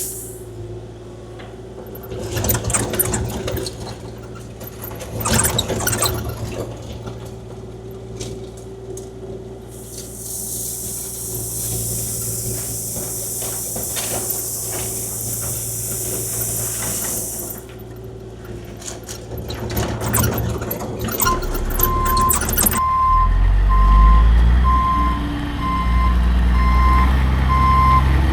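Kubota KX040-4 mini excavator's diesel engine running steadily while grading, with scattered scrapes and clanks and a high hiss for several seconds in the middle. About 21 seconds in a reversing beeper starts beeping steadily and a heavier engine rumbles in loudly underneath it.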